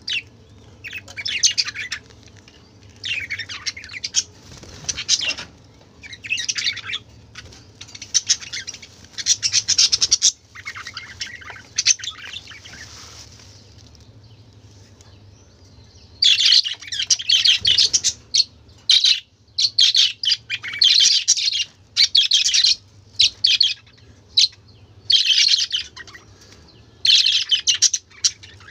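Budgerigars chattering and chirping in bursts of warbling twitter, on and off every second or so, with a short lull about halfway through. A steady low hum runs underneath.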